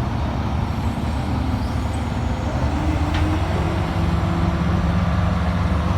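Heavy diesel engine of a lifting crane running steadily, its note rising a little about halfway through as it revs up.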